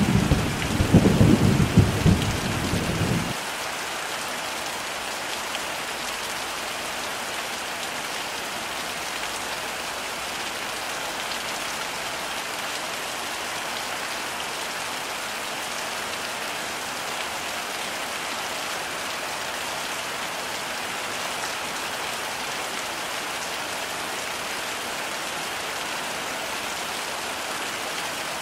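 Heavy rain falling steadily. A low rumble of thunder runs through the first three seconds and cuts off abruptly.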